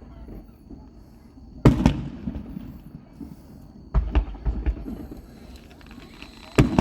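Aerial fireworks bursting: three sharp booms a couple of seconds apart, the middle one followed by a quick run of smaller pops.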